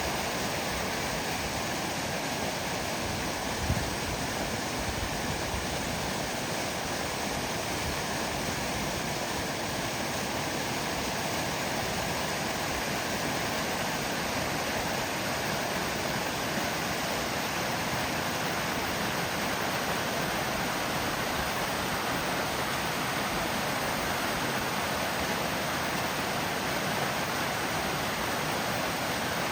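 Small roadside waterfall: water rushing steadily over the rocks, with one light knock about four seconds in.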